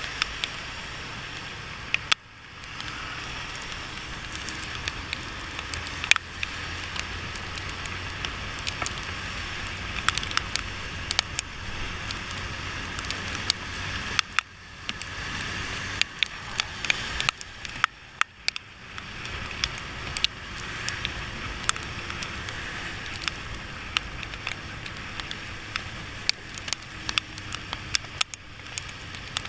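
Motorcycle riding in the rain: many sharp, irregular raindrop clicks and crackles on the microphone over a steady bed of engine and wet-road noise, dipping briefly a few times.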